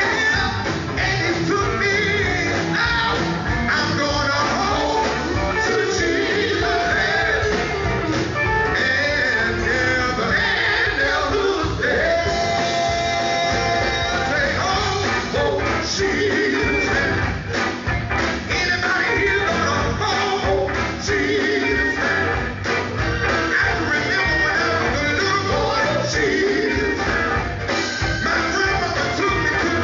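Song performed by singers with a band, guitar and a steady beat, with a long held note about halfway through.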